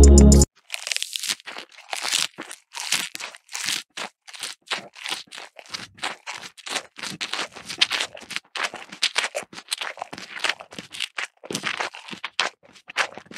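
Close handwork on craft material: a quick run of short crackling, scraping rasps, about three a second.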